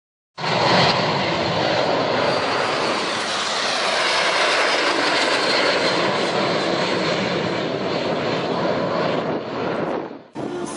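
L-39C Albatros jet trainers flying by, a loud steady jet noise with a faint high whine, which cuts off abruptly about ten seconds in.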